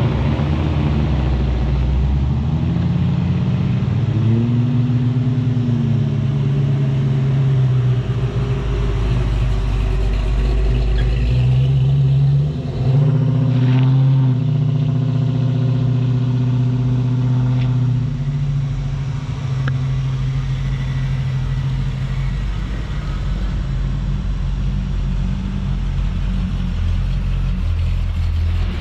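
Show cars driving out past one after another at low speed. Their engines rumble, and the pitch rises twice as cars accelerate away, a little after the start and again about halfway through. A Plymouth Prowler pulls out near the start and a Pontiac Trans Am near the end.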